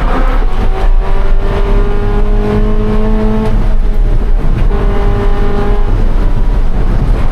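2013 Scion FR-S's flat-four engine running hard at race pace, its pitch climbing slowly under acceleration. It breaks off about three and a half seconds in, then pulls again about a second later.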